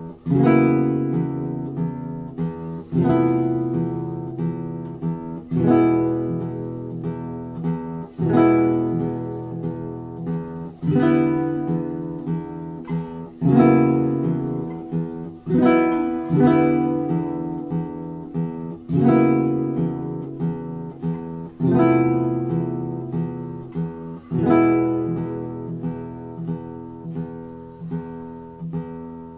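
Custom-built guitar being played: chords struck about every two and a half to three seconds, each left to ring and fade before the next.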